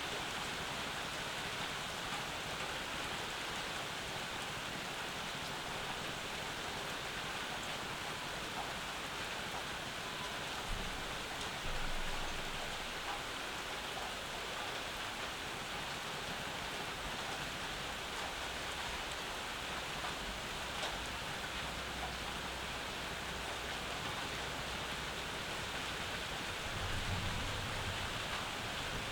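Steady rain falling and pattering on surfaces, an even hiss. A low rumble joins in about a third of the way through for several seconds, and comes again briefly near the end.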